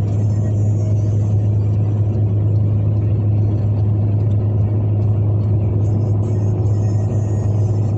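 Car driving on a road: a steady low rumble of engine and tyre noise, unchanging throughout.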